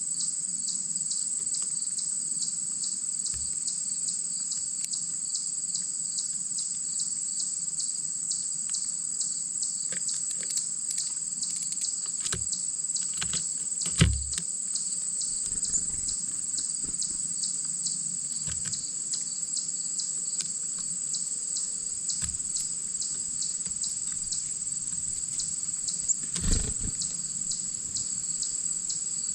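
A steady insect chorus, chirping in an even, fast pulse. A couple of short thumps stand out, one about halfway through and one near the end.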